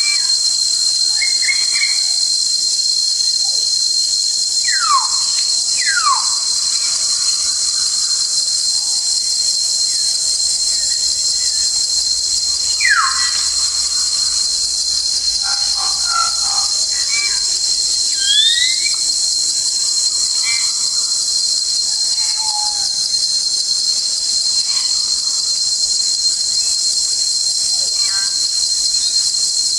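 Forest insects, crickets or cicadas, keep up a steady high-pitched shrill chorus. Over it, birds call with a few sharp whistles sliding downward and, later, a pair of short rising whistles.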